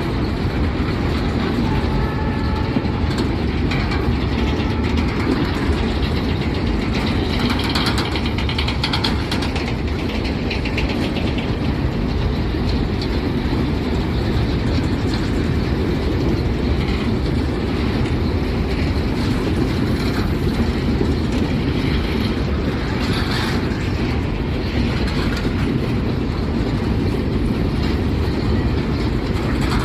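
Empty freight train rolling past, its wagons' wheels on the rails making a steady rumble with scattered short clanks.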